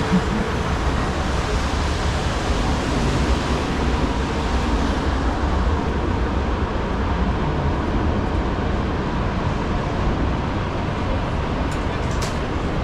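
Steady city street traffic on rain-wet roads, with engines rumbling and tyres hissing, and a few sharp clicks near the end.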